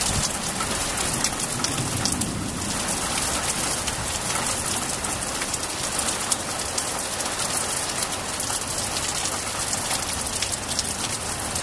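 Steady rain falling: an even hiss with many sharp ticks of drops striking nearby surfaces.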